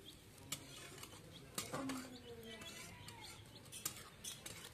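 Faint bird chirping, with a few sharp clicks and knocks.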